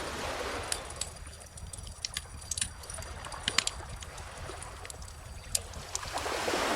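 Bonfire crackling with scattered sharp pops, over calm ocean waves: one wave washes in at the start and another swells near the end.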